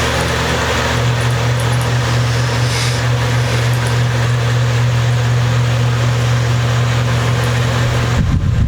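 A loud, steady motor-like hum with a low drone that does not change, with irregular knocks starting near the end.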